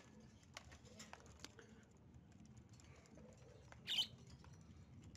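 Faint light clicks and rustles from handling at a wire birdcage, then a pet bird's single short, high chirp about four seconds in.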